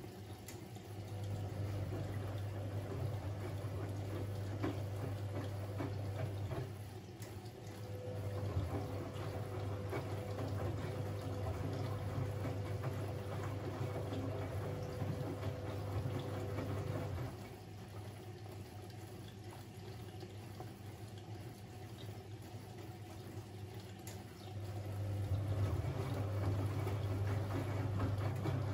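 Siemens Siwamat 6143 washing machine on a boil wash, its motor turning the drum with water sloshing. The drum runs in stretches of several seconds, with quieter pauses between them.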